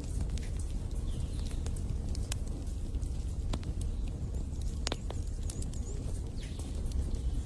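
Wood fire crackling in a fireplace: irregular sharp pops and snaps over a steady low rumble, with one stronger pop about five seconds in.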